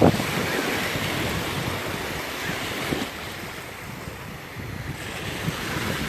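Gulf of Mexico surf washing onto the beach, a steady wash that eases about four seconds in and builds again, with wind buffeting the microphone.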